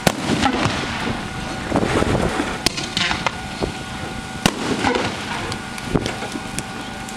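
Winda 'Thunder Rolls' consumer fireworks cake firing: sharp bangs of bursting shells every second or two over a continuous crackling haze.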